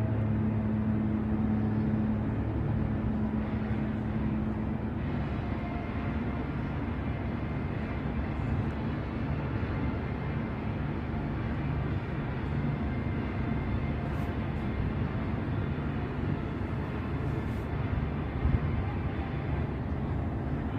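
A ship's horn sounds a deep tone that fades away over the first few seconds, leaving a steady low rumble of the ship under way.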